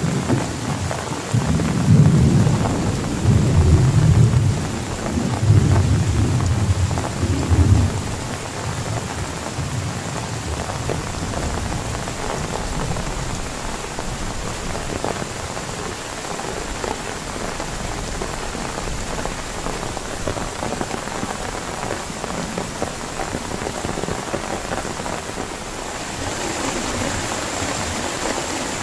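Heavy rain falling steadily, with thunder rumbling in several loud low swells through the first eight seconds or so. After that only the rain goes on.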